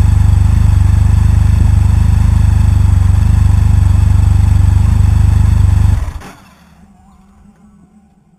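A 2014 Can-Am Spyder RT-S's engine running steadily through an Akrapovic sports exhaust, with a deep, loud exhaust note. The sound cuts off abruptly about six seconds in.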